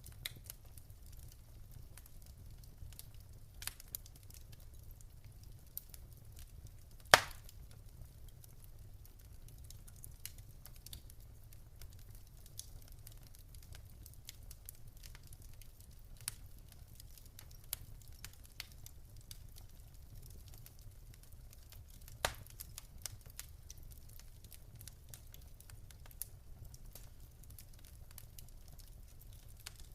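Wood fire crackling in a fireplace: a low steady rumble under scattered sharp pops and snaps, with a loud pop about 7 seconds in and another about 22 seconds in.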